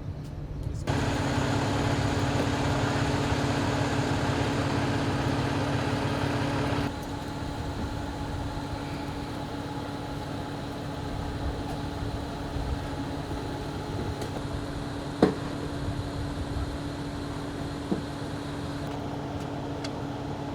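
Steady mechanical hum of an idling engine, with a constant low drone; it is louder for the first several seconds, then drops a step. A single sharp click about fifteen seconds in.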